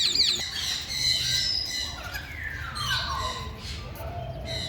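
Several caged birds calling at once: a quick run of repeated squawks at the start, then overlapping chirps and whistled calls with a long falling note about two seconds in.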